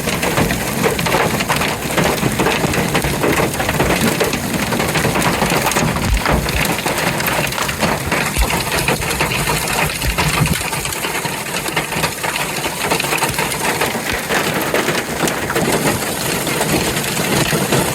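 Hail and heavy rain pelting down in a dense, continuous clatter of many small, hard hits.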